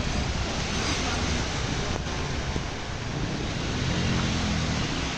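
A steady wash of wind and water noise over the microphone with a motor vehicle running underneath, its engine a little more prominent about four seconds in.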